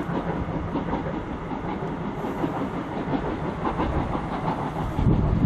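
Slow-moving steam-hauled train: Tobu's C11 123 with two blue OHA 14 passenger coaches rolling toward the listener, wheels clicking over the rail joints. A DE10 diesel locomotive's engine runs in the background, and a louder low rumble comes in near the end.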